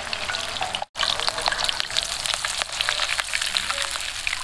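Food frying in hot oil at a street food stall: a dense crackle and sizzle, broken off briefly just before a second in.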